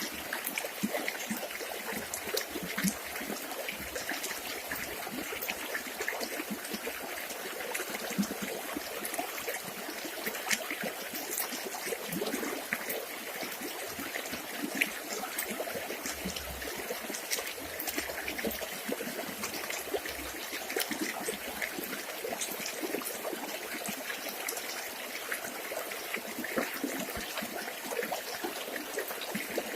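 River water trickling and flowing steadily, with many small splashes.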